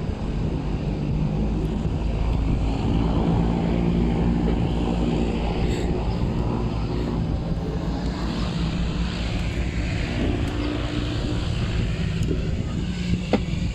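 Steady drone of an aircraft engine running, with wind buffeting the microphone.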